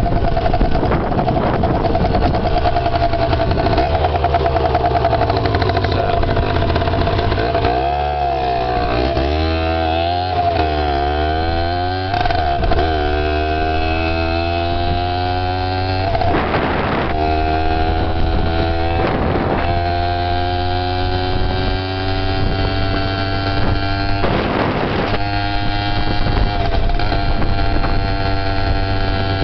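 Small dirt bike engine running under way. Its pitch wavers up and down for a few seconds about a third of the way in, then climbs slowly as the bike gathers speed. Wind buffets the microphone a few times.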